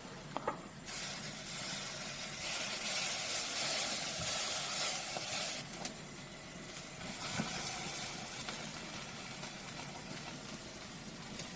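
Hot food sizzling with a steady hiss that swells and eases, with a few faint clicks.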